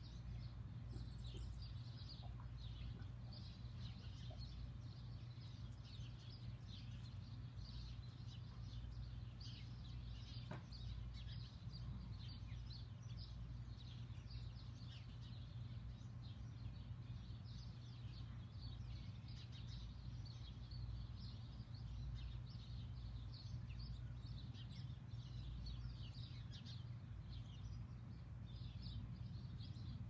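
Small birds chirping and tweeting all through, many short high chirps overlapping, over a steady low background rumble.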